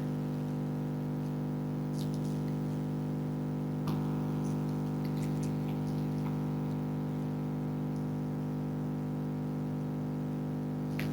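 Freezer's steady electrical hum with several tones, strongest low down. A sharper tick comes about four seconds in, with a few faint ticks scattered through, fitting foxes crunching food.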